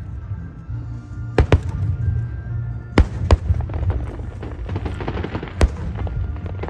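Aerial fireworks shells bursting in sharp bangs, a pair about one and a half seconds in, two more around three seconds, and one near the end, with a spell of crackling sparks between them, over a steady low rumble.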